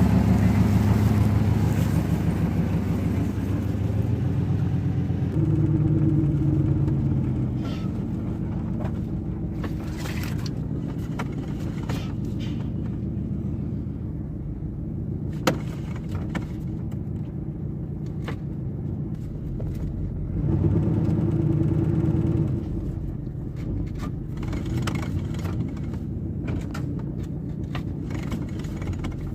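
A Chevrolet 350 small-block V8 in an old pickup running steadily, its pitch and level stepping up about five seconds in and again about twenty seconds in. One sharp click sounds about halfway through.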